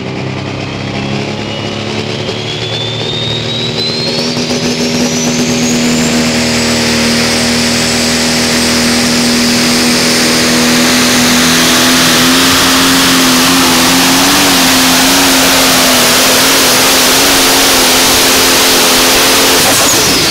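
A tractor-pull vehicle's engine running flat out down the track. A high whine climbs steadily over the first several seconds and then holds with the engine note, until the engine lets off at the very end.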